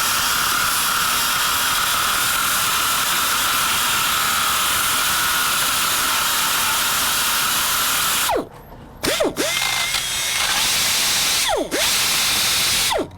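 Small angle grinder grinding the wheel studs down flush so the brake rotor can come off the hub: a steady high-pitched whine over a hiss. It cuts out about eight seconds in, with a falling whine as the disc spins down, then starts again. It drops briefly near twelve seconds and stops just before the end.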